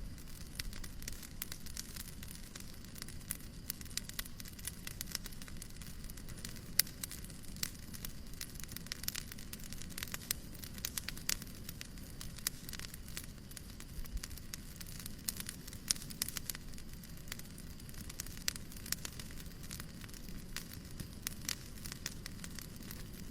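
Wood fire crackling: irregular sharp pops and snaps, one louder pop about seven seconds in, over a steady low noise.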